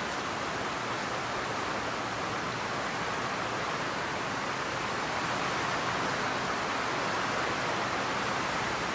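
Torrential rain falling in a steady hiss, growing slightly louder over the last few seconds.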